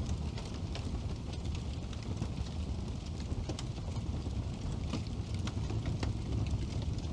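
Wood fire burning in a fireplace: a steady low rumble of flames with frequent small, sharp crackles and pops from the burning logs.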